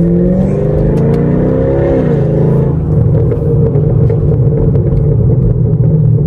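Loud exhaust of a straight-piped 2017 Chevrolet Camaro SS's V8 under acceleration. The pitch climbs for about two seconds as the revs rise, drops back, then the engine runs steadily.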